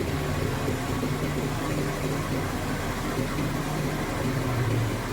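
Suzuki Vitara idling with the air conditioning running: a steady engine hum. The freshly serviced AC compressor runs smoothly, without the growl of a worn compressor.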